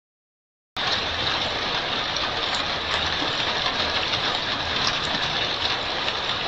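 Heavy rain pouring down, picked up by a security camera's microphone: a steady hiss with a few faint ticks of drops. It starts abruptly about a second in and cuts off right at the end.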